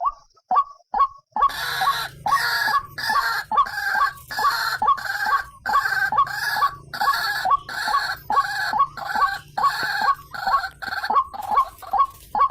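White-breasted waterhen (ruak-ruak) calling: a series of short repeated notes. About one and a half seconds in, louder, harsher calls join in, about two a second.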